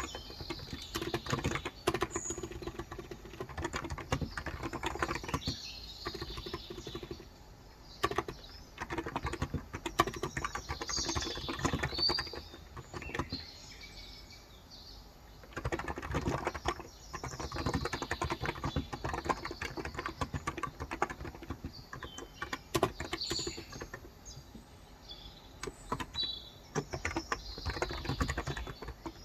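Typing on a Cox Endeavour electrostatic capacitive keyboard with 35 g switches: runs of quick keystrokes with brief pauses. Birds chirp over it.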